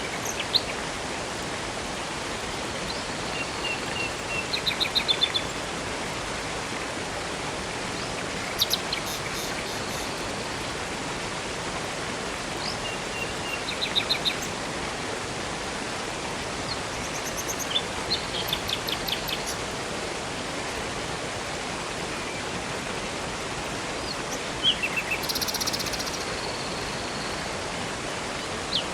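Steady rushing of a river and waterfall, with songbirds chirping and trilling in short bursts every few seconds over it.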